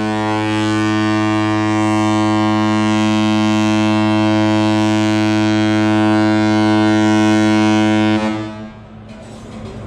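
Cruise ship Mein Schiff 1's horn sounding one long, steady, deep blast that cuts off about eight seconds in, signalling that the ship is about to leave port.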